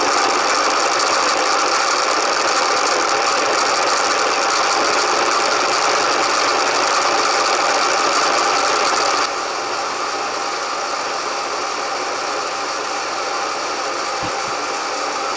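Milling machine spindle running with a drill bit, drilling a hole in a mild-steel block: a steady, loud machine whine with several fixed tones, which steps down a little about nine seconds in.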